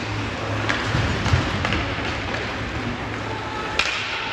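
Game ambience in a large hall: steady background noise with a low hum, and scattered sharp clicks and knocks from play.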